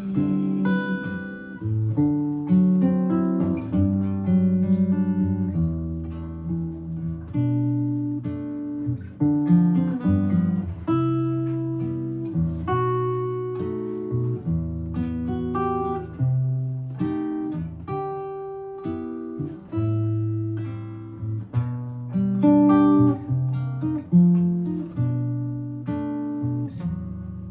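Solo guitar playing an instrumental chorus of a jazz ballad: plucked melody notes and chords ringing over bass notes, with no singing.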